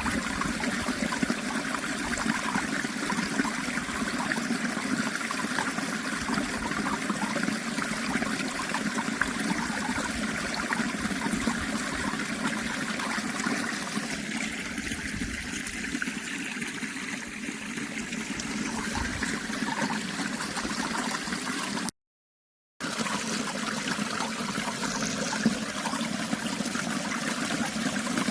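Natural running water, a steady trickling and splashing flow like a small stream. It drops out to complete silence for under a second about three quarters of the way through, then carries on as before.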